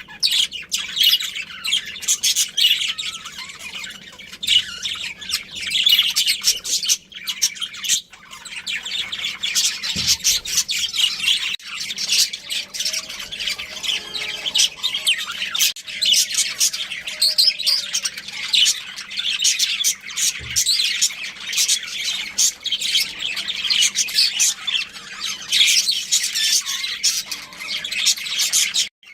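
Budgerigars chattering non-stop: a dense run of rapid high chirps and squawks.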